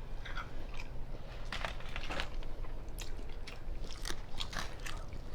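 Close-up eating sounds: corn dipped in Alfredo sauce being bitten and chewed, with irregular crunchy, wet clicks.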